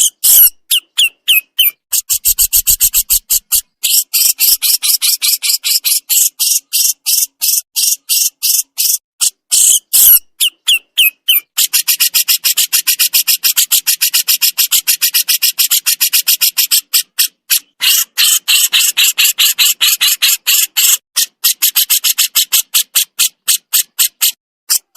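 A jenggot songbird giving a long run of fast, harsh, rasping call notes in rapid repeated strings (besetan), broken by a couple of brief pauses.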